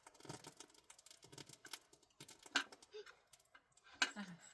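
A series of light clicks and taps from objects being handled, with a short voiced sound near the end.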